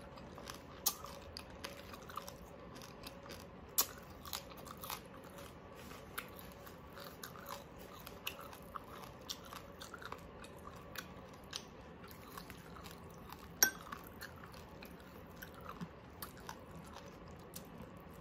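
A person chewing mouthfuls of fatty oven-baked crispy pork close to the microphone, with scattered small wet mouth clicks. A sharper click stands out about 14 seconds in.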